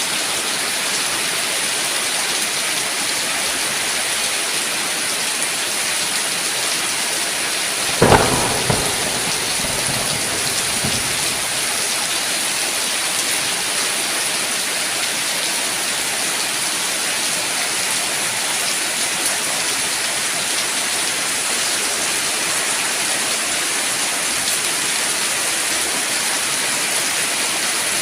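Steady heavy rain falling, with a single sharp thunderclap about eight seconds in that rumbles away over the next few seconds.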